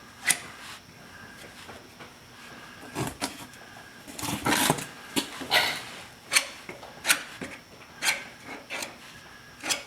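Plastic spreader scraping 3M Premium body filler over a repaired panel, in a series of short strokes that come about once a second in the second half.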